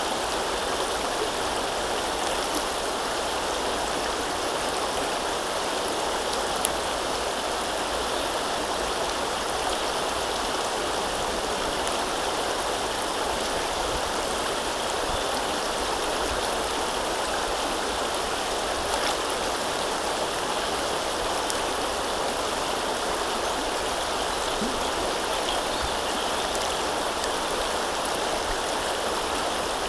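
River water flowing with a steady, even rush, with a faint tick or two.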